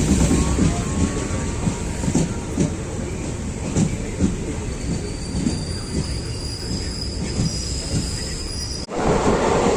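Passenger train running along the track: a steady rumble with irregular clatter of wheels over rail joints, and a thin, high wheel squeal for a few seconds in the middle. Near the end the sound breaks off abruptly and comes back louder and rougher.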